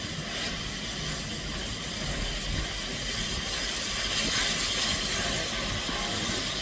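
Peppercorn Class A1 steam locomotive 60163 Tornado letting off a steady hiss of steam, which swells a little about four seconds in.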